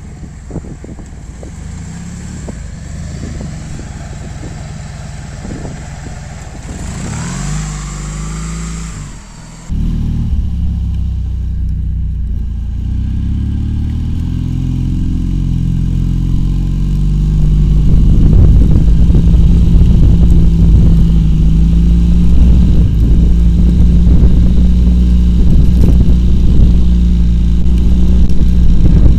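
Homemade quad bike's two-cylinder Oka car engine running. About seven seconds in the revs rise, then near ten seconds the sound suddenly jumps louder and deeper, and it climbs again to run loud and steady for the last ten seconds.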